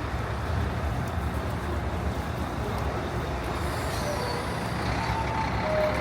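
City street traffic with a heavy vehicle's engine running, a steady low rumble. A few faint short high tones come near the end.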